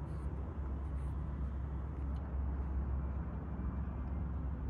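BNSF freight train passing, a steady low rumble.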